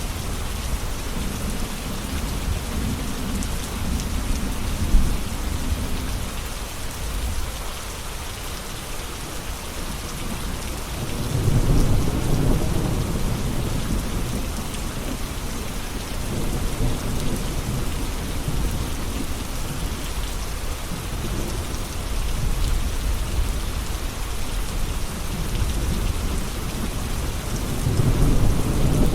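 Steady heavy rain falling, with low rolling thunder that swells about twelve seconds in and again near the end, and a single sharp tap about five seconds in.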